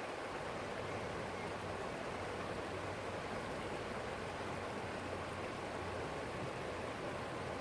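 Small forest stream flowing over rocks: a steady, even rush of water with a low rumble underneath.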